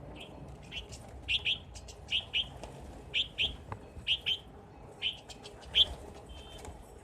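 Rosy starlings calling: a series of short, sharp chirps, many in quick pairs, about a dozen in all, with the loudest near the end.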